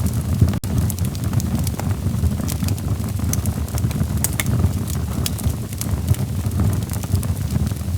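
Wood fire burning in a fireplace: a steady low rumble of burning logs with scattered sharp crackles and pops, broken by a momentary dropout about half a second in.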